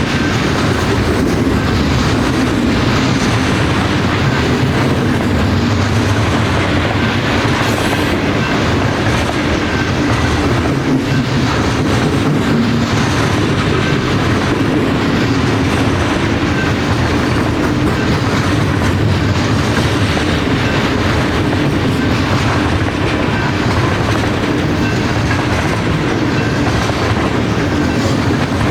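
A train's cars rolling steadily past at close range, the wheels clicking over the rail joints.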